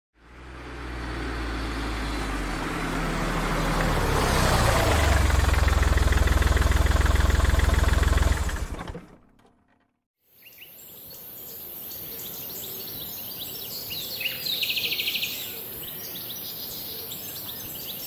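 A loud, low rumbling sound swells over the first eight seconds and fades out. After a short silence comes outdoor ambience: a steady high hiss with birds chirping, most clearly a little past the middle of the second part.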